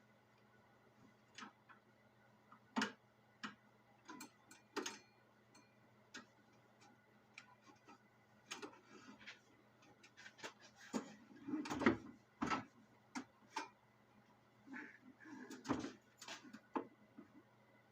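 Irregular light clicks and knocks, busiest in the second half, over a faint steady hum.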